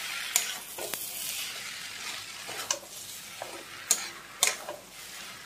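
Poi saag with chickpeas and tomato sizzling as it is fried in a metal kadhai: a steady hiss, with a spatula stirring and scraping against the pan several times.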